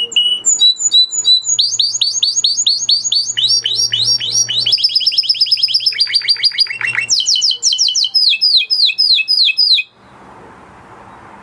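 Spanish Timbrado canary singing a long, loud song of fast repeated notes and rolling trills, switching to a new phrase every second or two. It stops suddenly about a second and a half before the end.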